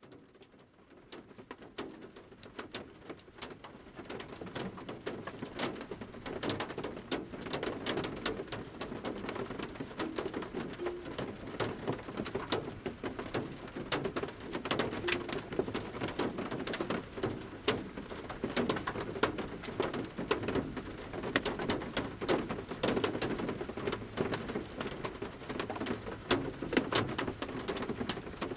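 Large raindrops from the forest canopy striking the metal roof of a camper van, heard from inside as irregular sharp taps over the soft patter of light rain. The sound fades in over the first few seconds, with a low bird call in the background.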